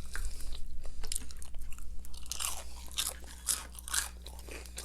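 Crunchy fried chicken skin being bitten and chewed, a run of sharp crackly crunches.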